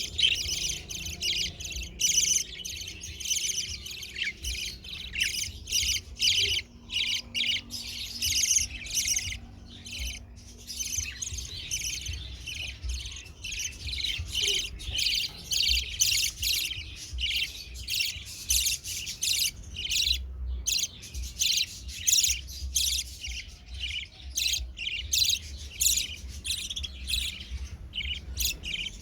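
A flock of budgerigars chirping and chattering continuously, many quick overlapping chirps with no break, over a faint low rumble.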